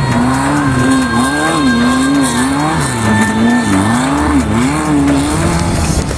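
Air-cooled VW flat-four engine of a Class 11 VW Bug desert racer, heard from inside the car. It revs up and down over and over, its pitch climbing and dropping several times.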